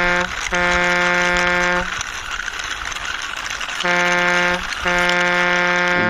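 Vehicle horn honking in two pairs, a short toot followed by a longer blast, the second pair about four seconds in, over a steady hiss.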